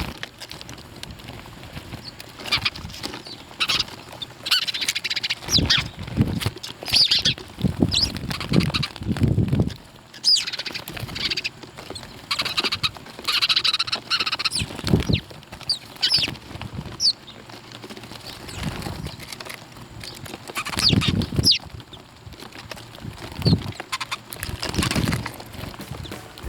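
Birds chirping in short, high, falling notes, mixed with repeated bursts of wing flapping and scuffling.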